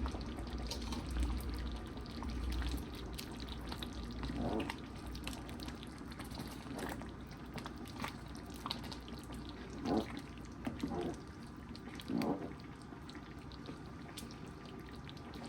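Thick khichuri (rice and lentils) bubbling in a pot as it finishes cooking, with scattered small clicks and a few short blips.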